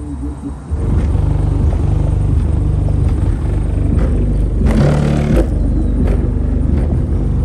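Car-audio subwoofers playing bass-heavy music at high volume, with deep, sustained bass notes that change every second or so. A short, noisy burst comes about five seconds in.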